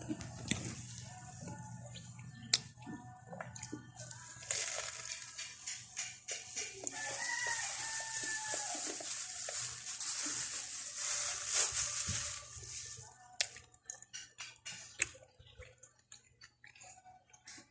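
A rooster crows once in the background, part-way through a steady hiss that runs through the middle of the stretch and then cuts off. Scattered light clicks and knocks are heard around it.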